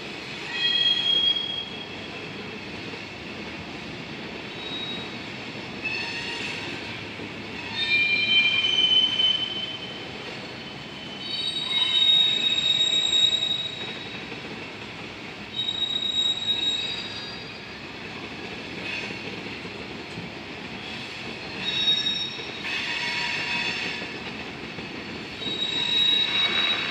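Freight train of covered hopper cars rolling past, its steel wheels squealing on the rails in repeated high-pitched bursts every few seconds over a steady rolling rumble.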